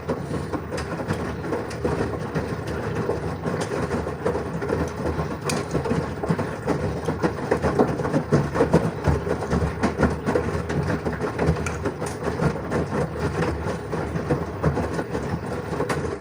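LG washing machine running a wash, with a steady rumbling, clattering churn of the drum that cuts off suddenly at the end.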